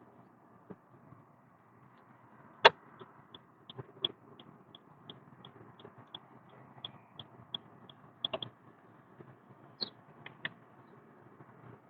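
Car cabin on the move with steady road noise; a sharp click about two and a half seconds in is followed by a turn-signal indicator ticking evenly, about three ticks a second, for some five seconds, then a few more clicks near the end.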